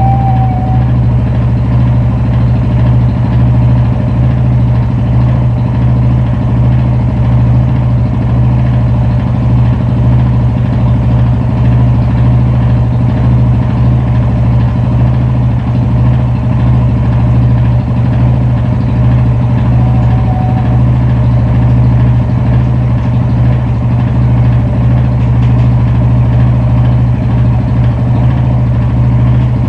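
Yamaha Fazer 250's single-cylinder engine idling steadily. The bike was brought in for a strange engine noise.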